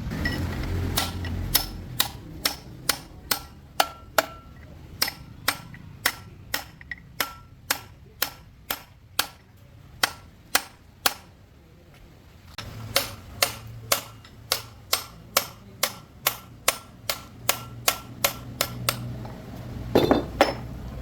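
Hammer blows on metal at a steady pace, about two to three a second, each with a short metallic ring. They come in two long runs with a brief pause between them, then a louder double blow near the end.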